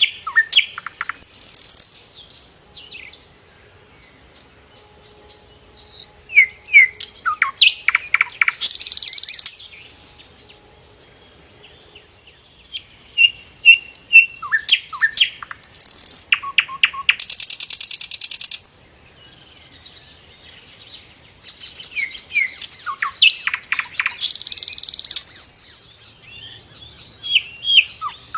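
Sikatan londo flycatcher singing. It gives a song phrase about every seven seconds: a quick run of sharp, falling whistled notes that ends in a high buzzy trill, with quiet gaps between the phrases.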